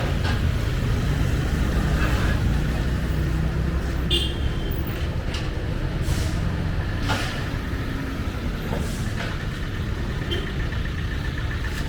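Street ambience: a motor vehicle engine running close by with a low, steady rumble that eases after about four seconds. Voices of passers-by, a brief high tone and scattered short knocks sound over it.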